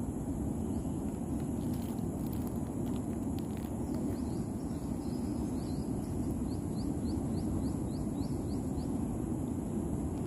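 Outdoor natural ambience: a steady low rumble under a steady high-pitched ringing. From about halfway a quick run of short chirps, a few a second, goes on for a few seconds.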